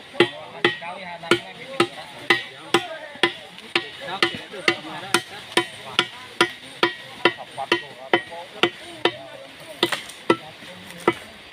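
Hoes (pacul) striking hard earth and stone in quick succession, about two sharp blows a second, with voices chatting underneath.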